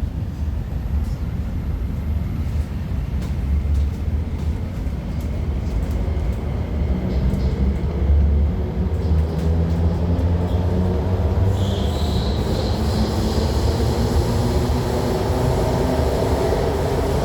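MTR IKK-Train electric multiple unit accelerating on the line: a continuous low rumble of wheels on track, with the traction motor whine rising gradually in pitch from about halfway through. More high hiss joins the rumble near the two-thirds point.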